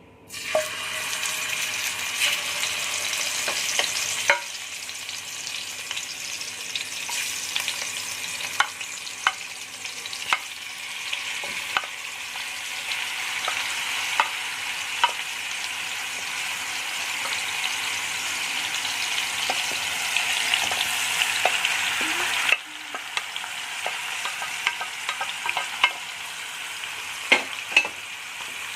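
Marinated chicken sizzling in hot ghee in a kadai, a steady frying hiss, with a spatula clicking and scraping against the pan as the pieces are stirred. The sizzle drops suddenly about three-quarters of the way through and then builds again.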